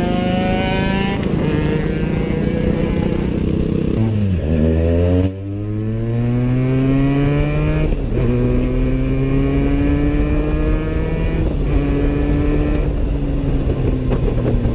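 Motorcycle engine pulling through the gears. Its pitch climbs steadily, then drops sharply at each shift: about four seconds in, around eight seconds, and twice more near the end.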